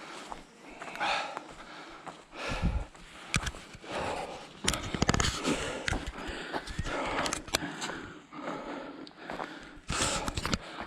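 A hiker's breathing on a mountain trail, a breath about every second or so, mixed with footsteps and scuffs.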